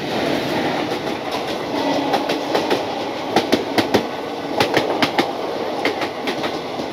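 Local passenger train running, heard from on board: a steady rumble of wheels on rails with irregular sharp clicks and clacks, in clusters, as the wheels cross the rail joints and points where the Digha line branches off at the junction.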